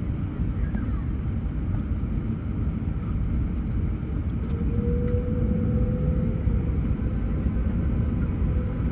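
Airbus A380 jet engines heard from inside the cabin as a steady low rumble. About halfway through, a whine comes in and climbs slowly as the engines spool up to takeoff thrust at the start of the takeoff roll.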